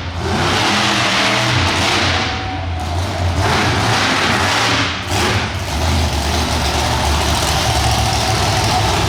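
Monster truck engine revving hard and loud under full throttle, easing off briefly a couple of times.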